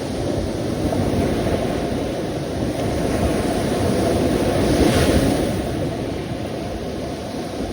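Ocean surf: a steady low rush of waves, with one wave breaking louder and brighter about five seconds in.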